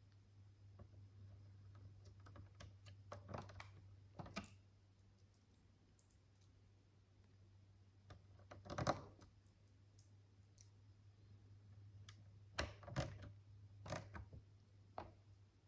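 Tiny plastic micro bricks clicking and tapping as they are handled and fitted together: a few small clusters of clicks, the loudest about nine seconds in, over a faint steady low hum.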